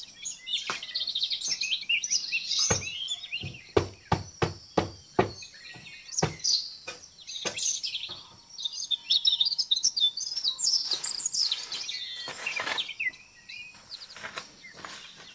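Small birds chirping, with a quick irregular run of sharp knocks or taps between about three and six seconds in.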